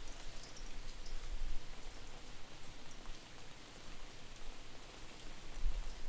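Steady rain with scattered drop ticks, under a low, uneven rumble of wind buffeting the microphone.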